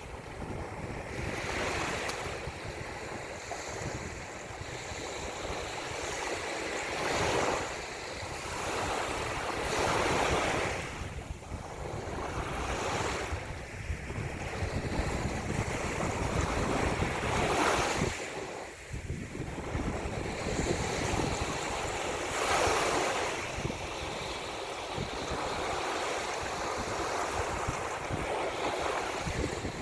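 Ocean surf: waves rushing in and falling back, swelling every few seconds, with wind buffeting the microphone as a constant low rumble underneath.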